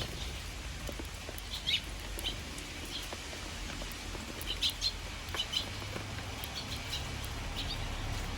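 Eurasian tree sparrows chirping in short, high bursts, in little clusters about two seconds in and around the middle, over a steady patter of rain.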